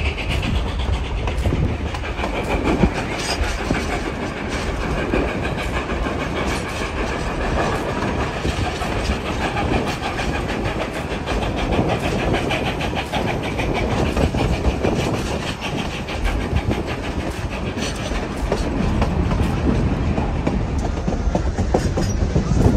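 Durango & Silverton narrow-gauge train rolling along the track, heard from an open passenger car: a steady rumble of the cars with the regular clickety-clack of wheels over rail joints.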